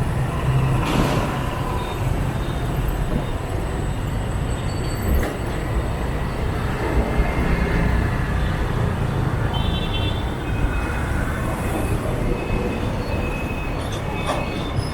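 Street traffic heard from a motorbike riding through city streets: a steady rumble of motorbike engines and road noise.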